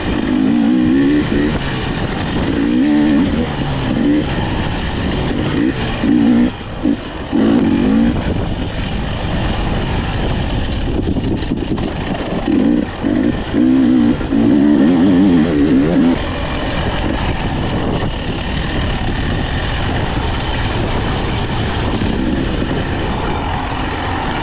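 Husqvarna 300 TE two-stroke dirt bike engine running while being ridden, with repeated bursts of throttle: the pitch climbs and wavers in several stretches, strongest about 5 to 8 seconds in and again about 12 to 16 seconds in, between steadier running.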